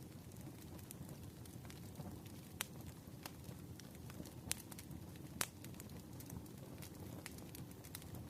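Crackling fire ambience: a low steady rumble with sharp pops and snaps at irregular intervals, a few louder ones around the middle.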